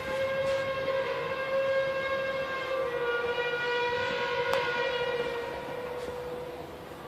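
Bulldozer blade scraping finished concrete, giving a long, steady, trumpet-like drone rich in overtones that dips slightly in pitch about three seconds in and fades near the end. This is the mechanical source of the mysterious 'sky trumpet' sound. A single sharp click comes about halfway through.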